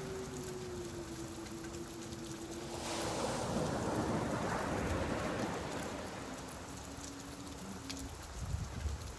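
Steady rain falling on a beach with the sea's surf; a wave swells louder about three seconds in and fades away. A faint steady low hum runs underneath, with a couple of soft low thumps near the end.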